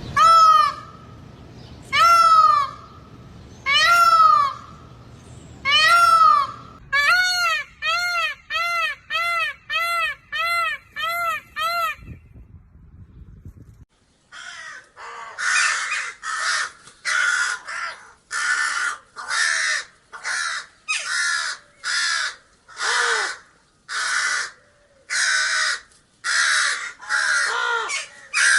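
Peacock calling: four loud, long wailing calls about two seconds apart, then a quick run of shorter calls, about two a second. After a pause, crows and ravens give a long series of harsh caws, a little more than one a second.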